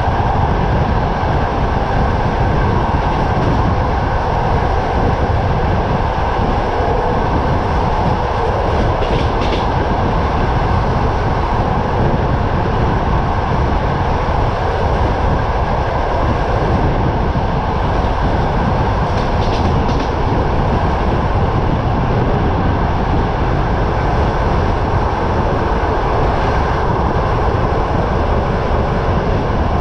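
Running noise of a passenger train heard at an open carriage window: a steady rumble and hum of the train with wind buffeting the microphone, and the clatter of wheels on the rails mixed in underneath.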